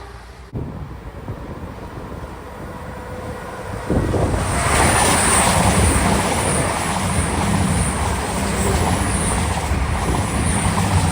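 A train running past close by: a steady low rumble with a high rail hiss, jumping louder about four seconds in.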